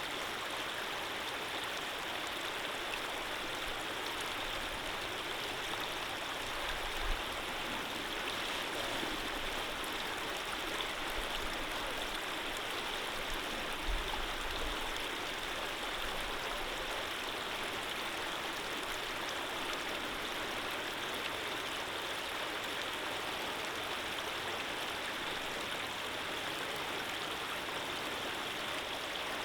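Running water of a stream flowing steadily, an even rushing hiss. There are a couple of brief low bumps, about a third and halfway through.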